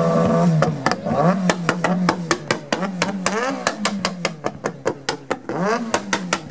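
A motorcycle engine held at a steady rev, dying away about half a second in, followed by a fast string of sharp knocks, about three or four a second, with a voice rising and falling over them.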